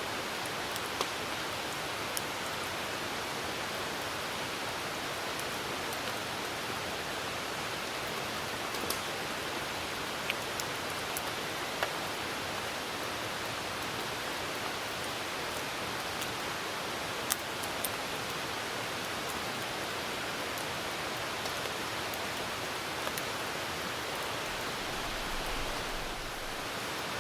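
Steady hiss of rain falling, with a few sharp, irregular pops from a wood campfire.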